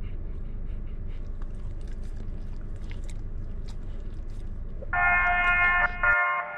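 Steady low rumble of a car cabin on the move, with faint scattered clicks. Background music comes in about five seconds in, and the rumble cuts off abruptly soon after.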